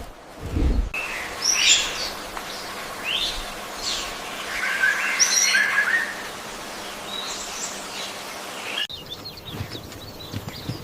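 Wild birds chirping and singing: scattered short chirps and quick rising and falling notes over a steady outdoor hiss, cut off abruptly near the end. A deep, pulsing animal call sounds in the first second.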